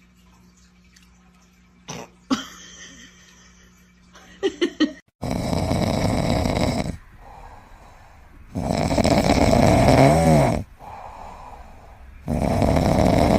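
A pet snoring loudly: three long, raspy snores a few seconds apart, the middle one ending in a whine that rises and falls. Before them, a few seconds of quiet with a couple of faint clicks.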